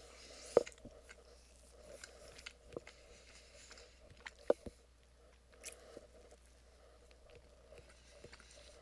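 A person chewing a bite of soft bread with hot sauce on it: quiet mouth and chewing sounds with a few sharp clicks, the loudest about half a second in and again about four and a half seconds in.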